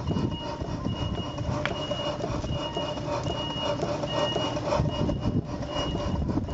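4-inch scale Fosters traction engine running on compressed air, its exhaust beating in a quick, even rhythm. A thin high-pitched tone comes and goes about once a second, in time with the engine.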